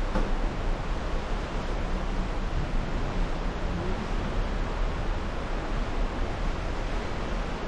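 Steady rushing of wind buffeting the microphone on the open deck of a cruise ship under way, a low rumble that flickers in strength.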